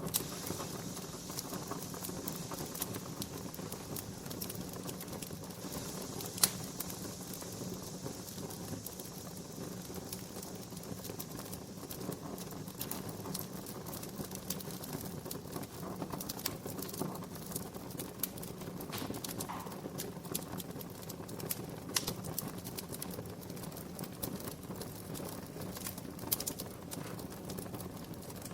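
Wood fire crackling in a fireplace: irregular sharp crackles and snaps, with a few louder pops, over a steady low hum.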